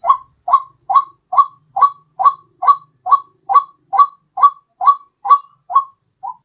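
White-breasted waterhen (ruak-ruak) call played as a bird lure: a short rising note repeated about twice a second, some fourteen times, the last one fainter.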